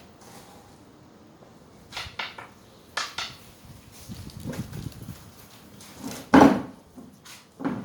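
Knocks and rattles from a budgie cage at uneven intervals, the loudest a little after six seconds in.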